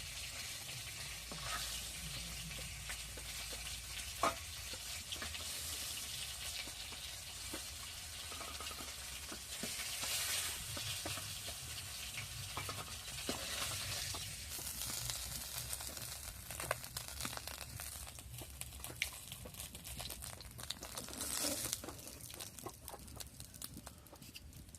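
Food frying and sizzling in hot oil in a pan, stirred, with frequent short clicks and scrapes of the utensil.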